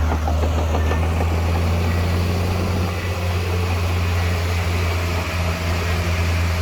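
Diesel engine of heavy earthmoving machinery running steadily, a low, even drone.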